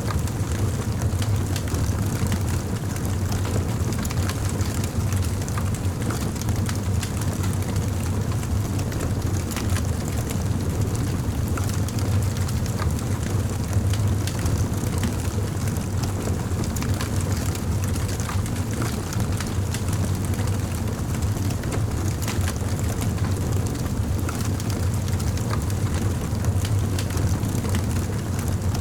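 Campfire burning: a steady low rumble of flames with scattered crackles and pops from the burning wood.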